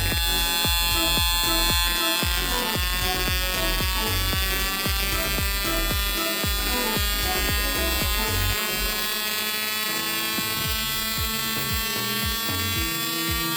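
Multichispa FS 6AL multi-spark ignition unit running on a test bench after repair. It gives a steady electrical buzz made of many tones that drift slowly in pitch, with repeated snapping clicks through it.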